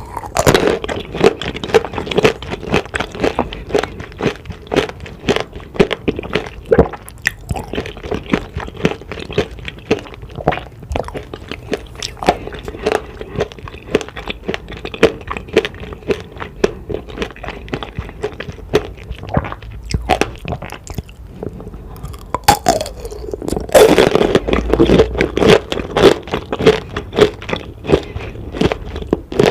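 Close-miked crunching and chewing of tanghulu, fruit coated in a hard candied-sugar shell: dense, crackly crunches throughout, with a louder burst of crunching about 24 seconds in, like a fresh bite.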